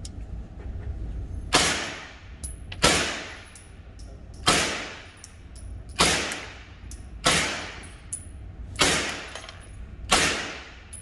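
Seven shots from a 9mm carbine fired one at a time, about a second and a half apart, each followed by a short echoing tail.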